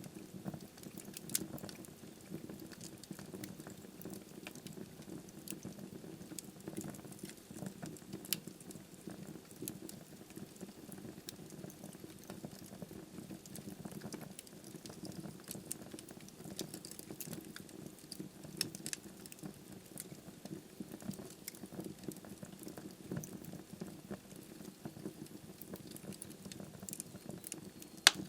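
Log fire burning in a fireplace, crackling with many small snaps over a low, steady rumble of the flames, and one loud pop near the end.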